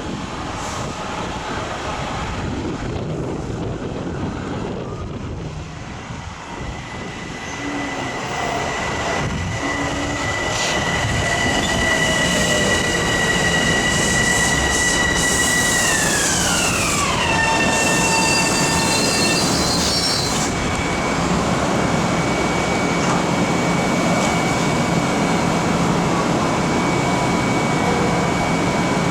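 LIRR M7 electric multiple-unit train pulling in: wheel and track noise with a high electric whine of several tones that drops sharply in pitch a little past halfway as the train slows, then a single steady high tone.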